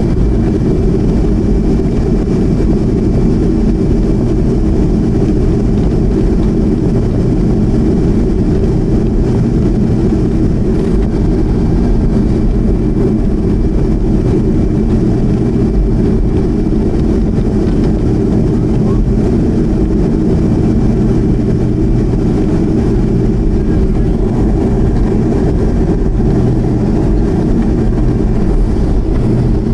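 Boeing 737-200's Pratt & Whitney JT8D turbofan engines running steadily: a loud, even low rumble with a few steady tones in it.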